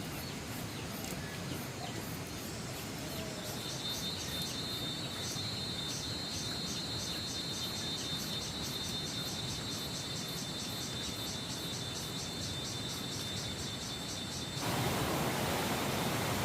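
An insect chirping in a rapid, even pulse from about three seconds in, over a steady outdoor hiss. Near the end the chirping stops abruptly and a louder, steady rushing noise takes over.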